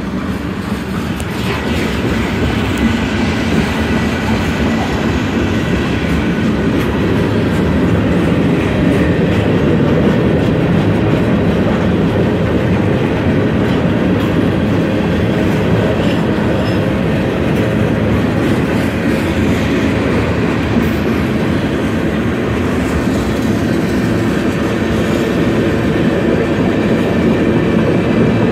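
Long freight train of gondolas and covered hopper cars rolling past a grade crossing: a steady noise of steel wheels on the rails, growing a little louder over the first few seconds and then holding even.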